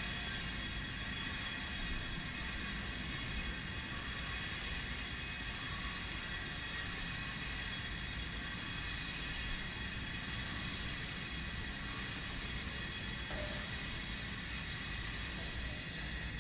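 Power tool grinding or cutting stone, running steadily: a continuous hiss with several high whining tones over a low rumble, thinning out abruptly at the very end.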